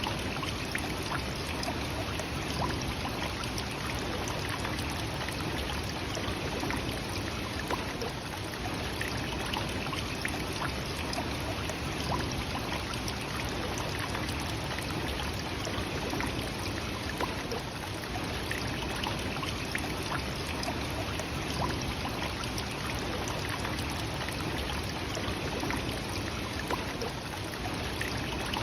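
Nachi Falls, a waterfall about 133 metres high, falling steadily: an even, unbroken rush of water.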